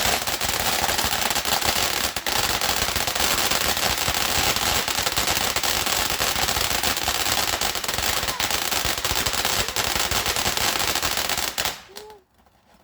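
A firework crackling in a long, dense string of rapid small bangs that stops suddenly near the end.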